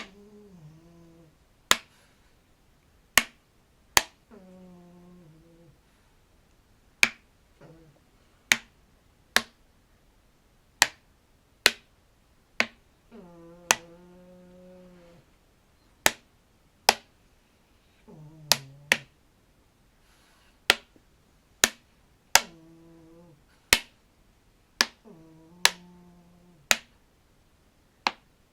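Collapsible plastic tube being popped, giving sharp, irregular snap-like pops about once a second. Between the pops come several low, drawn-out tones of a second or two that sag slightly in pitch as the tube is worked.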